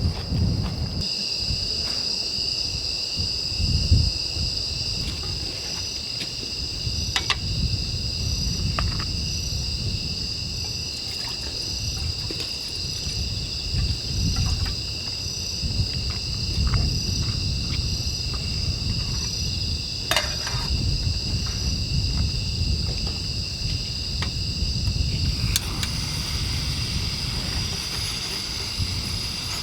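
Wind buffeting the microphone in a low, uneven rumble, over a steady, high-pitched insect trilling that holds at several pitches. Near the end a hiss rises in.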